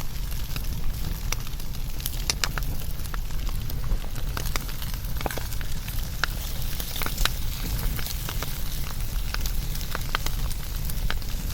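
Wood fire burning, with a steady low rumble under frequent, irregular sharp crackles and pops.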